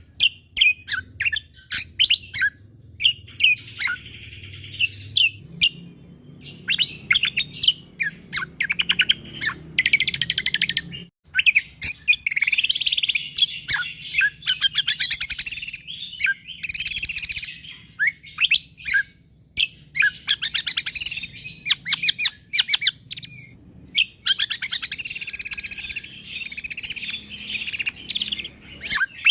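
Cucak kombo (kecial kombo) songbird singing in tight, rapid-fire runs of high chirps and trills, phrase after phrase with short breaks, over a faint low hum.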